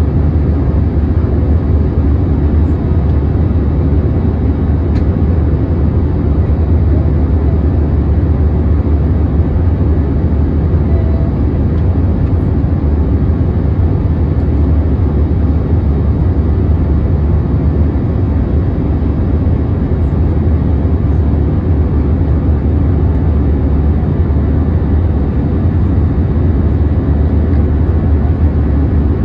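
Steady, loud low rumble of jet engines and air noise heard inside an Airbus A321 passenger cabin, with no change in pitch or level.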